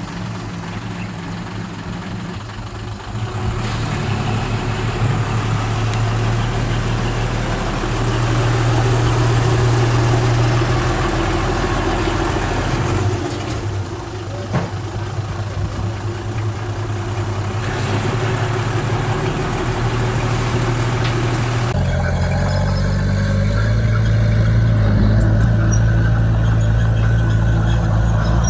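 Diesel engine of a crawler bulldozer running as it works, growing louder a few seconds in and easing briefly midway. The sound changes suddenly about three-quarters of the way through.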